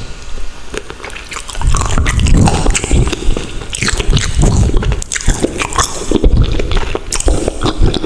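Close-miked chewing and wet mouth sounds of someone eating, with many small clicks and squelches. It gets much louder about a second and a half in.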